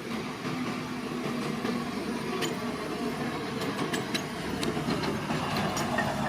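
Crawler bulldozer's diesel engine running steadily, with sharp metallic clanks and clicks from the steel tracks starting about two seconds in.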